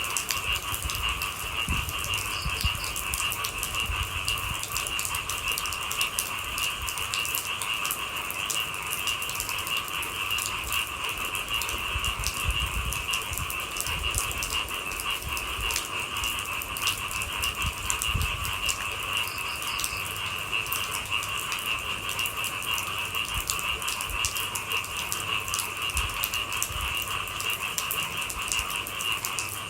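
Steady rain patter of many fine drop taps, with a few heavier low thuds, over a continuous chorus of night-calling animals holding two steady pitches.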